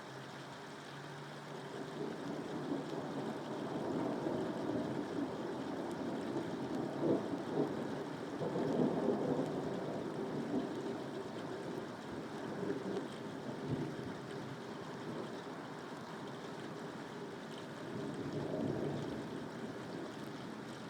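Steady rain, with rolls of thunder rumbling: a long swell that builds over the first half and a shorter one near the end.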